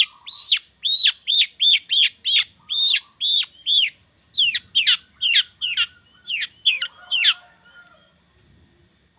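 Long-tailed shrike (cendet) calling: a fast run of sharp, downward-sweeping notes, about three a second, then a quicker, more varied series that stops about seven seconds in, leaving a few faint high notes.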